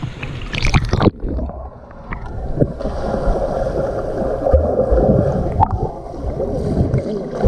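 A dog leaps into a swimming pool with a splash just under a second in. Then the sound goes muffled, heard from underwater, with the bubbling and churning of the dog paddling beneath the surface.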